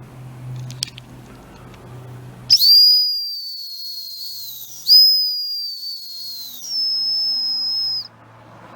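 A cheap exhaust-mounted 'turbo whistle' gives three high whistles. The first two start sharply and sag a little in pitch as they fade. The third is steadier and slightly higher, then cuts off suddenly.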